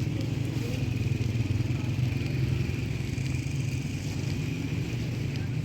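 A vehicle engine running steadily with a low hum, with a few light clicks and knocks.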